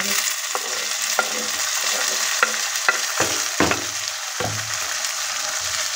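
Onion-ginger tadka sizzling in a metal kadhai as chopped tomatoes go in, with a steady frying hiss. A ladle or spoon knocks and scrapes against the pan about half a dozen times.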